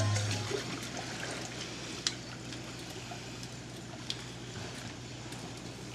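Faint water trickling and lapping, under a steady low hum, with two small clicks about two seconds apart.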